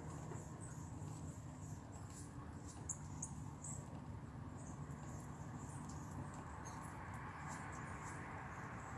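Faint, high-pitched chirps and ticks from small wildlife, scattered irregularly with a cluster about three seconds in, over a low steady outdoor rumble.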